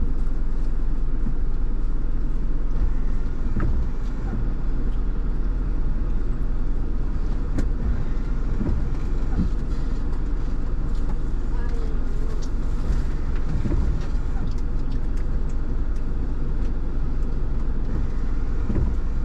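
Car cabin while driving: a steady low rumble of engine and tyre noise, with a few faint clicks and knocks.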